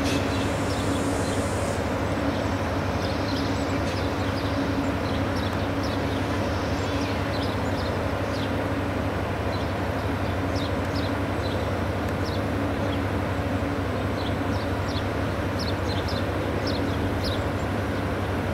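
A train running steadily, with a low, even hum and drone that holds without change. Short high chirps are scattered over it throughout.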